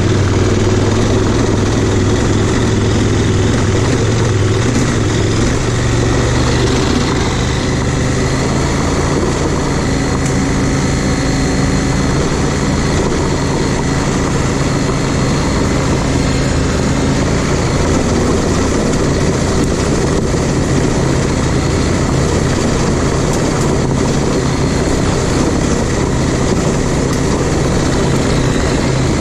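Adventure motorcycle engine running steadily while riding, its pitch shifting a little with the throttle, over a constant rush of wind noise.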